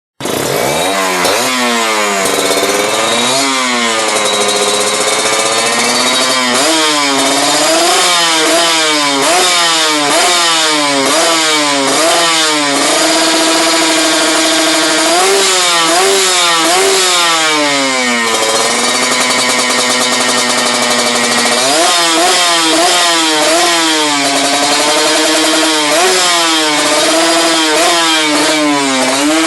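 Kawasaki two-stroke motorcycle engine revved through a new aftermarket exhaust, over and over: quick blips that rise and fall in pitch, with a few longer holds at steady revs in the middle and again later.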